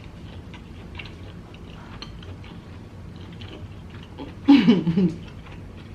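Close-miked chewing of a mouthful of prawn, with soft, irregular wet clicks of the mouth. About four and a half seconds in comes a short, louder muffled vocal sound through the full mouth.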